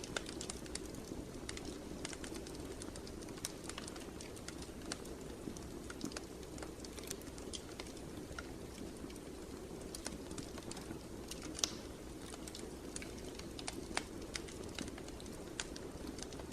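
Wood fire burning in a fireplace: a steady low rush of flames with irregular crackles and sharp pops, the loudest pop about two-thirds of the way through.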